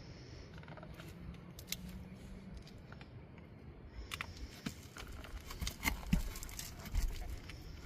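Scattered clicks, taps and scrapes of hands working over asphalt shingles, coming more often and louder in the second half, over a steady low rumble.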